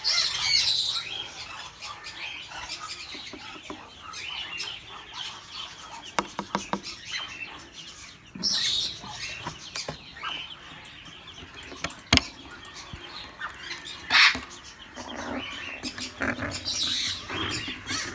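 Caged parrots chirping and calling, with scattered clicks and knocks from a cage or nest box being handled; a sharp knock comes about twelve seconds in.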